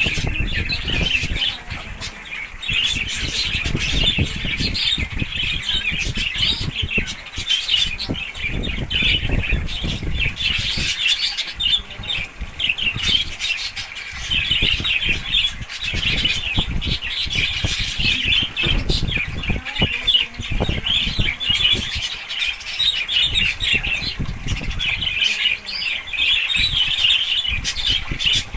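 A flock of small cage birds chirping and squawking continuously, many at once, with irregular low rushes and thuds underneath.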